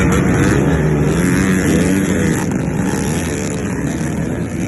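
Dirt bike engine running hard off-road, its pitch rising and falling with the throttle.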